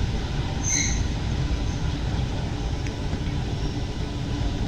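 Rubber-tyred Alstom MP 05 metro train running through the tunnel, a steady low rumble, with one brief high squeal a little under a second in.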